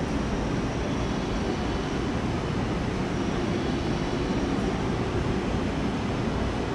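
Steady running noise of an electric train at a station platform, with a faint high whine held over it.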